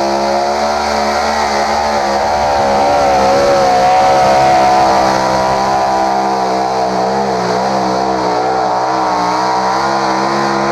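Pulling tractor's engine running flat out during a tractor pull, held at high revs with a slight wavering in pitch.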